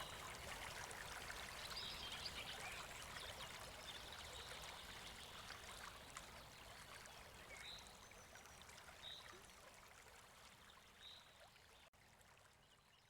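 Babbling brook: water running steadily over stones, with a few short high chirps over it, fading gradually away toward the end.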